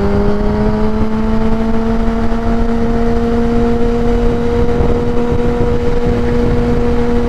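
2016 Kawasaki ZX-10R's inline-four engine, breathing through a Graves race exhaust, pulls with a small rise in revs at the start and then holds a steady pitch, with wind and road rumble underneath.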